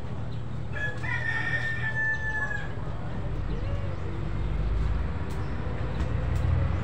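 A rooster crowing once, about a second in: one long held call lasting about two seconds, over a steady low background rumble.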